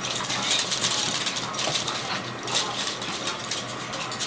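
Excited dachshunds whining, with a busy patter of light clicks and jingles from claws and collar tags.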